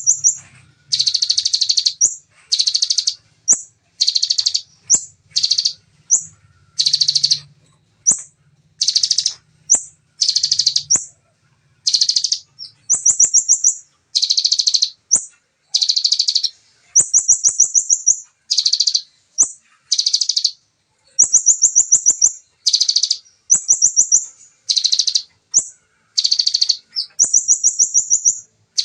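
A songbird singing a rapid 'shooting' song in the style of a bar-winged prinia (ciblek): short, dense, high trilled bursts about once a second, some followed by quicker, higher rattles.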